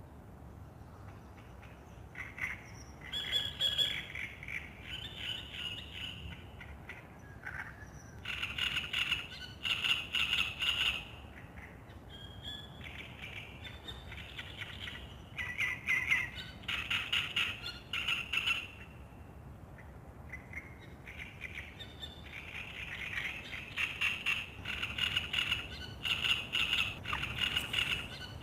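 Songbirds singing at dawn: repeated phrases of rapid, chattering notes, one after another, with short pauses between, over a low steady background hiss.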